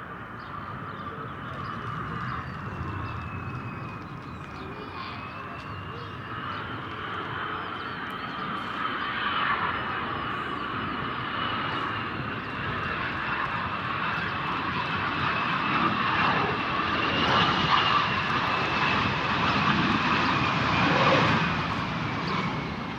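Jet airliner's engines passing: a high turbine whine over a rushing roar, growing louder for most of the time and easing off near the end.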